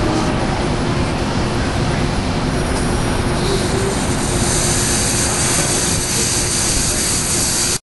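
Amtrak Coast Starlight passenger train running with a steady rumble, a high hissing squeal joining about three seconds in; the sound cuts off abruptly at the very end.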